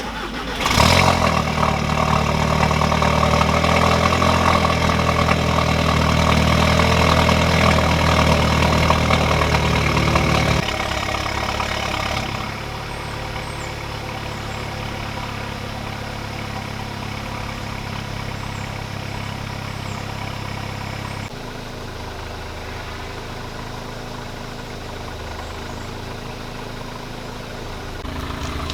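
Audi A3 2.0T four-cylinder turbo engine, breathing through an aftermarket downpipe and resonator-deleted exhaust, starting up and then idling steadily. The idle steps down to a lower, quieter note a few times as it settles.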